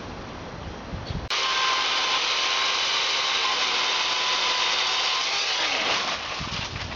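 Chainsaw running steadily as it cuts into the trunk of a giant bird of paradise (Strelitzia nicolai). It comes in abruptly about a second in and dies away near the end, with wind on the microphone before it.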